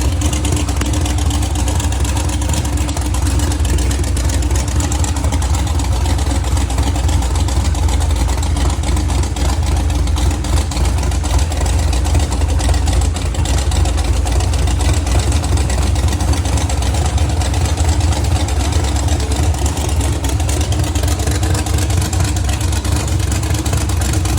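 Dirt-track race car engine running steadily at a constant speed after being started, with a deep, even exhaust note.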